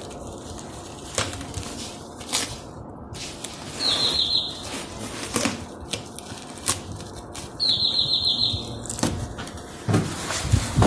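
A 230 mm Havells exhaust fan running steadily, with scattered sharp knocks and two short bursts of rapid high chirping, about four and eight seconds in.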